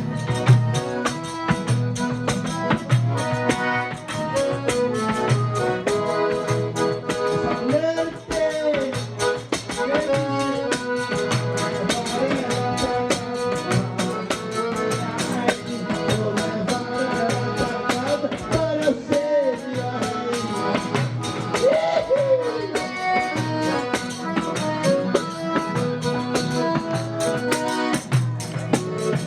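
Live folk music: sustained instrument chords over a steady beat, with percussion rattling continuously and voices singing short phrases now and then.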